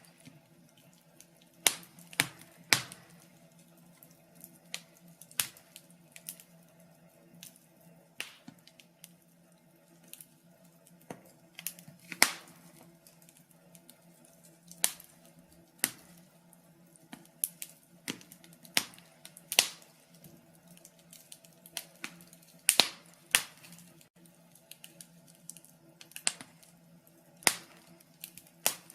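Wood fire in a fireplace crackling, with sharp irregular pops and snaps, some in quick clusters, over a faint steady low hum.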